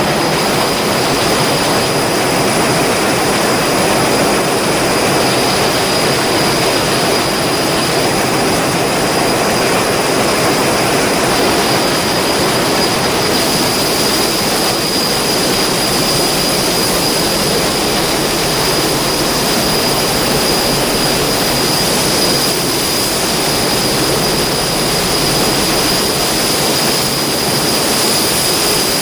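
Heavy machinery running steadily and loudly, with a constant high-pitched whine over a dense rumble.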